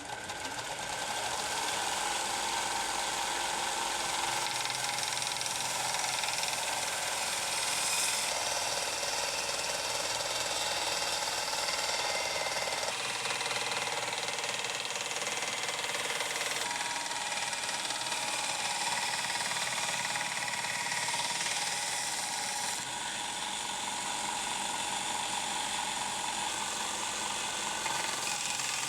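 Steady machine noise from metalworking on the scissors, such as a grinder, sander or welder, joined from several clips so that its sound changes abruptly three times.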